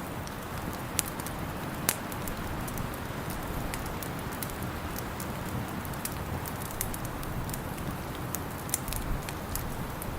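Wood fire crackling in a fireplace: scattered sharp pops and snaps, a couple of louder ones in the first two seconds, over a steady rushing hiss.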